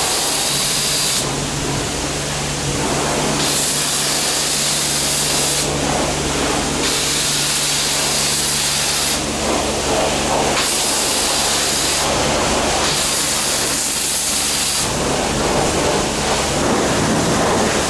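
Foam cleaner sprayed from a car-wash nozzle onto an engine bay, hissing in about five separate bursts of a couple of seconds each, over a steady low machine hum.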